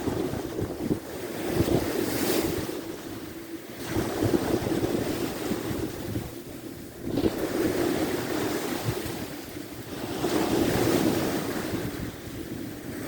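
Sea of Azov waves breaking on the shore, the surf swelling and falling back every few seconds, with wind buffeting the microphone.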